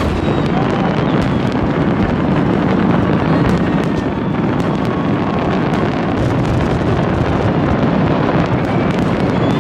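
A dense, unbroken fireworks barrage: countless bangs merge into a steady rumble, with many sharper cracks and a few faint high whistles on top.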